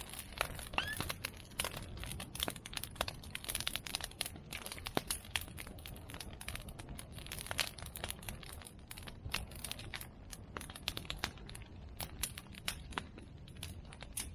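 A bonfire of cut medake bamboo and chestnut prunings crackling and popping, a dense, irregular run of sharp snaps, with a brief rising whistle about a second in.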